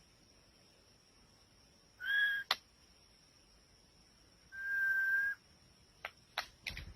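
Bird calls, taken to be white-rumped shama: two long, level whistled notes a couple of seconds apart, then a run of sharp clicking notes near the end, over a faint steady high tone.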